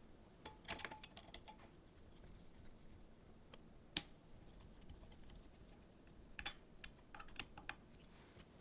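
Scattered light clicks and taps of small hard parts being handled: a quick cluster near the start, one sharp click about four seconds in, and another cluster near the end.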